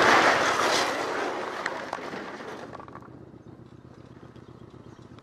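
A car's road and tyre noise rushing and dying away over about three seconds as the car slows after a collision, leaving a faint low hum.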